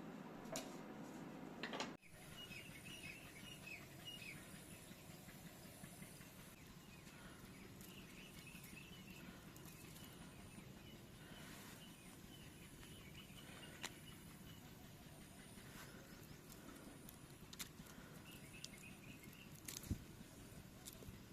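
Faint outdoor ambience: small birds chirping in short clusters on and off over a low hiss, with a few light clicks.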